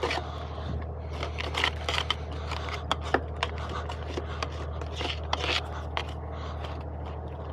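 Irregular scraping and light clicking over a steady low engine hum.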